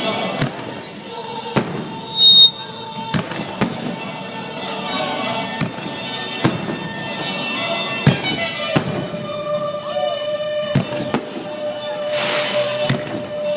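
Aerial fireworks bursting in an irregular string of about a dozen sharp bangs, over sustained high tones. The loudest burst comes about two seconds in.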